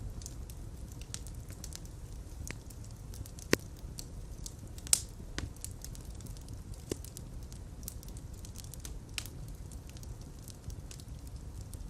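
Wood fire burning in a fireplace: a steady low rumble of flames with scattered sharp crackles and pops, two louder pops about three and a half and five seconds in.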